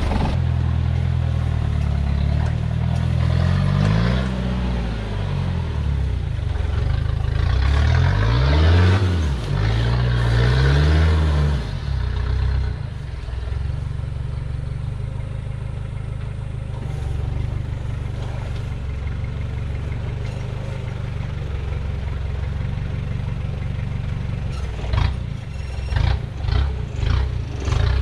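A Toyota Hilux's 3.0 turbo diesel engine pulling under load while rock crawling, revving up and back down three times in the first twelve seconds, then running steadily. A run of sharp knocks and clatter near the end.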